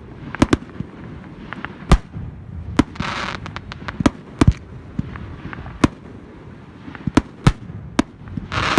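Fireworks display: about a dozen sharp bangs of bursting shells at an irregular pace, with a short rushing hiss about three seconds in and again near the end.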